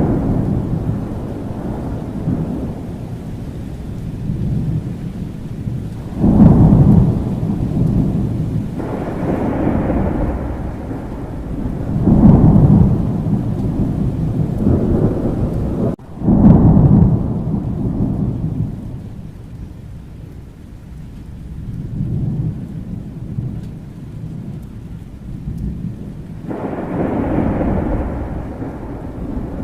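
Thunderstorm: steady rain with rolling thunder. About four low rumbles each swell up quickly and fade away over several seconds.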